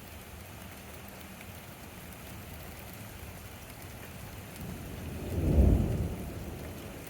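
Steady rain falling, with a low rumble of thunder that swells up about two-thirds of the way in, peaks sharply and then dies away.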